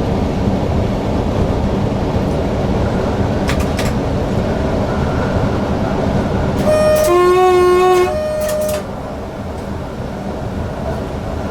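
Newag Impuls EN63 electric multiple unit running at speed, with its two-tone horn sounded about seven seconds in: a short high note, a longer low note, then a short high note again.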